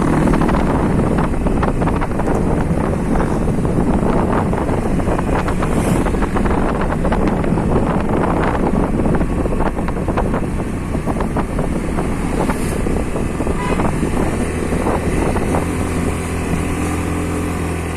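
Motorcycle running while being ridden, with wind rushing and buffeting over the microphone. The engine's low hum comes through more steadily in the last few seconds.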